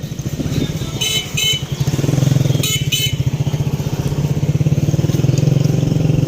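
Honda CG125 single-cylinder four-stroke motorcycle engine running steadily, a little louder about two seconds in. Two pairs of short high chirps are heard over it, about a second in and about three seconds in.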